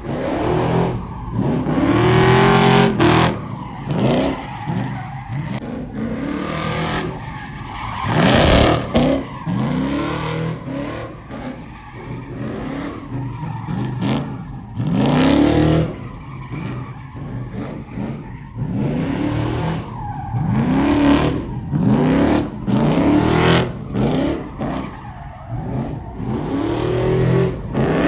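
Engines revving hard again and again, each rev rising in pitch and then dropping off, with stretches of loud tire squeal in between.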